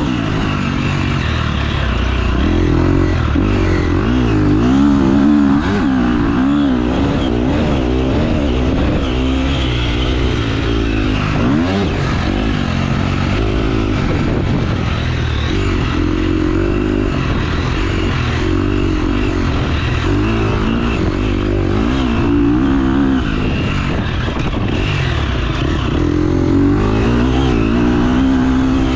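Motocross dirt bike engine being ridden hard round a track, revving up and dropping back again and again as the rider accelerates and shifts, with a rough, noisy edge over the engine note.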